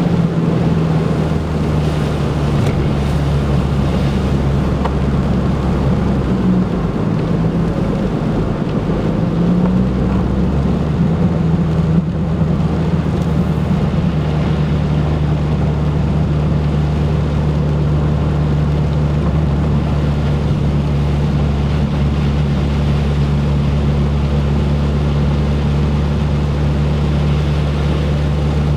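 Turbocharged Ford Focus engine running steadily, its pitch wavering a little in the first ten seconds and then holding even. The owner suspects a misfire in cylinder 2, from the plug wires or a fuel injector, after fitting a new coil pack.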